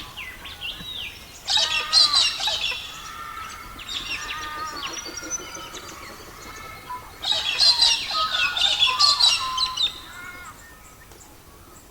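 Songbirds singing and chirping, several calls overlapping, in two busy bursts of quick twittering phrases about a second and a half in and again about seven seconds in, with softer chirps between them.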